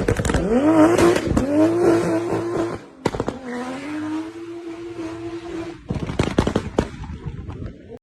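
Toyota Supra MK4's straight-six engine and exhaust: the revs rise and fall sharply at first, then hold a steady note, followed by a quick string of sharp pops about six seconds in.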